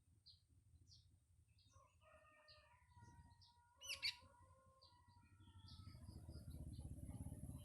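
Faint short chirps of a sooty-headed bulbul, with a rooster crowing for about three seconds from two seconds in, and one brief louder call near the middle. A low engine rumble rises near the end.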